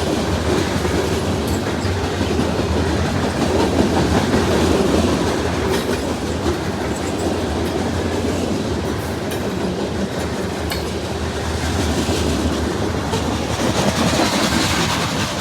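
CSX grain train's freight cars rolling past at speed, a steady heavy rumble with the wheels clacking over the rail joints.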